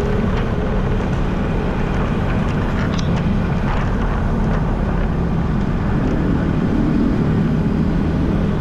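Steady wind rush over an action camera's microphone while riding a bicycle, mixed with the hum of road traffic.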